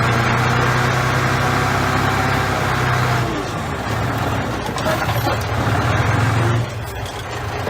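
Bulldozer's diesel engine running under load with a steady low drone. It eases about three seconds in, then picks up again before a brief dip near the end.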